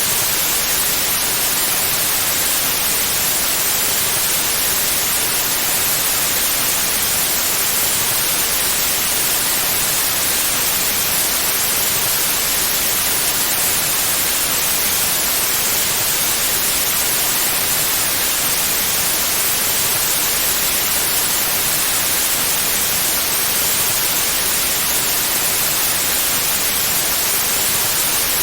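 Steady, unchanging white noise: an even hiss across the whole range, strongest in the highs, with no events or variation.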